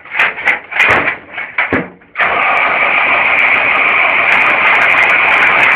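A GAZ-40P six-cylinder petrol engine in a BTR-60PA, with a few irregular sputters in the first two seconds. It catches about two seconds in and then runs with a loud, steady noise.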